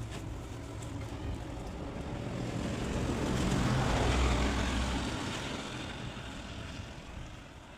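A motor vehicle passing by, its noise building to a peak about halfway through and then fading away.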